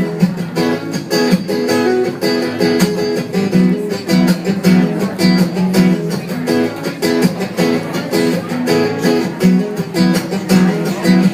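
Guitar strumming chords in a steady rhythm, an instrumental passage with no singing.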